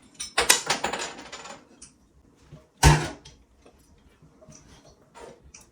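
Small parts of a toilet flush lever assembly handled and clinking together, with a burst of rattling clicks early and one sharp knock about three seconds in.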